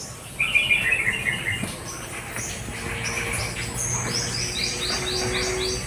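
Birds chirping: a quick run of notes about half a second in, then a fast series of high repeated notes near the end.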